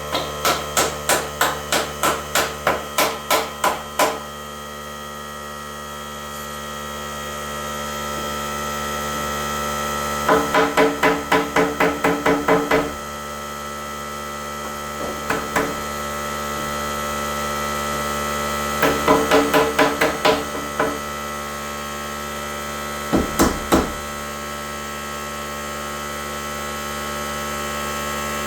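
Nails being driven into a wooden wall frame, in quick runs of sharp, ringing strikes about three a second: a long run at the start, shorter runs in the middle, and three strikes near the end. A steady hum runs underneath.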